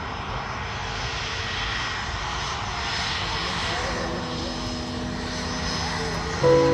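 Jet airliner's engines passing: a steady rush of engine noise with a thin high whine through it. Piano music comes in just before the end.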